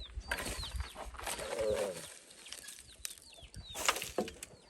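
Poultry calling: a steady run of short, high, falling peeps, with a lower clucking call about a second and a half in. A few short scraping noises come in between, the loudest near the end.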